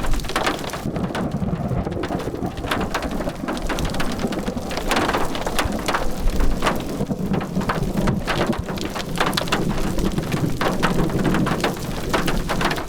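Rain hitting a vehicle's roof and windows, heard from inside, a dense run of drop ticks over a low rumble that swells and fades.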